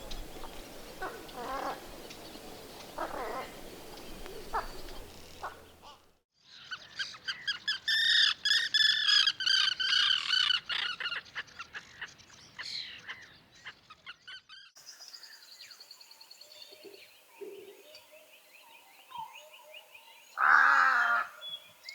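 Wild birds calling and singing, heard in a series of separate outdoor recordings. The middle stretch is a loud run of rapid, repeated chirping calls. After that comes a quieter high trill, with a short harsher call near the end.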